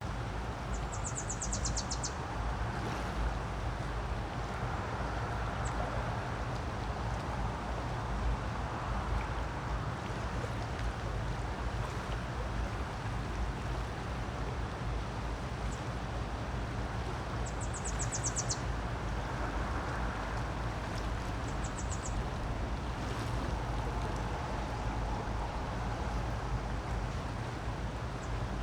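Creek water rushing steadily. A small bird's high, rapid trill cuts in near the start, again about two-thirds of the way through, and briefly once more.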